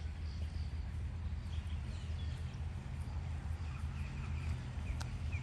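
Outdoor ambience with a steady low rumble under faint, short bird chirps; the chirps gather near the end, and there is a single sharp click about five seconds in.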